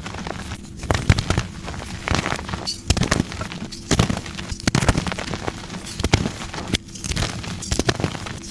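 Blocks of soft gym chalk being crushed and crumbling, in a continuous run of crunches and crackles with a louder crunch about every second.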